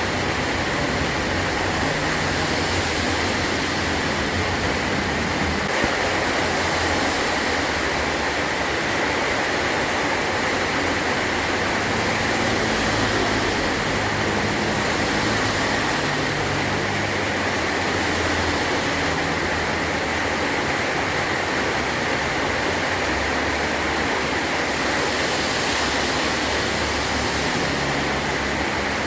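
Heavy rain pounding steadily on a metal roof, a dense even hiss, with a low rumble underneath that swells and fades.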